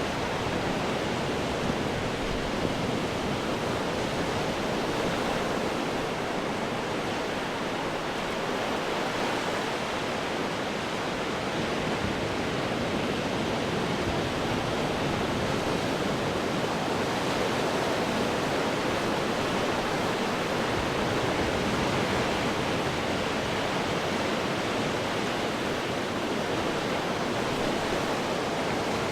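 Ocean surf breaking on rocks: a steady dense wash of water noise that swells and eases slowly, with no single wave standing out.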